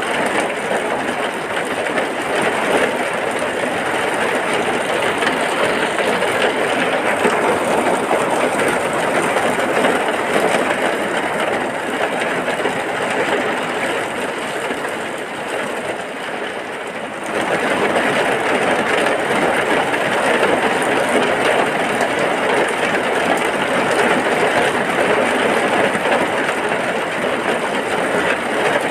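Heavy rain falling steadily, a dense even hiss. It eases slightly a little past the middle, then comes back in full abruptly.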